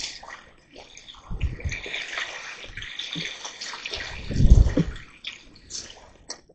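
Water splashing and running in a rushing hiss, with two dull low thumps about a second and a half and four and a half seconds in.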